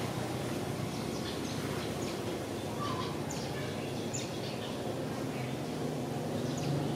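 Birds chirping in short, high, falling calls, several in a row about two to four seconds in and one more near the end, over a steady low background hum.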